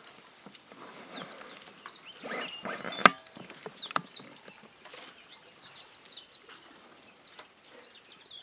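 Small birds chirping: many short, falling chirps throughout. A burst of rough noise sits in the middle and ends in a sharp click about three seconds in, the loudest sound, with a softer click a second later.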